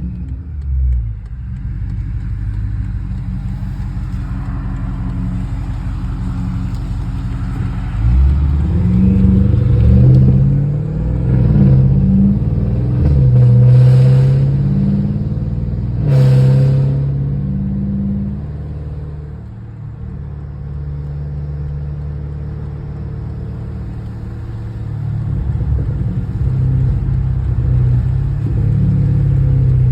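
Straight-piped 4.4-litre twin-turbo V8 of a BMW 550i (N63TU) cruising on light throttle. The exhaust drone swells and eases as engine speed changes, loudest through the middle stretch, with a brief sharp noise about halfway through.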